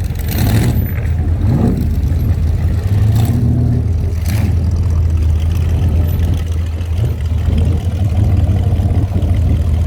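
Deep, steady rumble of a car engine running at low speed close by, as a parade car or hot rod idles and creeps past.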